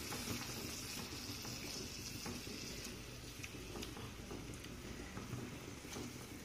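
Tomato puree frying with onion paste and whole spices in desi ghee, a soft steady sizzle, stirred with a silicone spatula, with faint scrapes and ticks.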